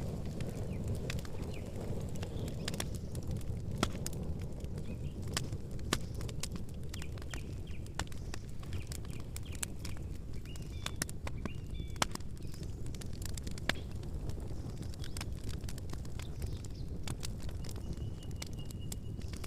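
Campfire burning with a low steady rumble and frequent sharp crackles and pops of burning wood. Faint short bird chirps come in about halfway through and again near the end.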